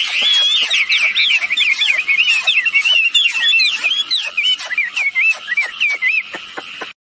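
Wambi birds singing: a rapid, continuous string of short whistled notes that jump up and down in pitch, stopping about six seconds in.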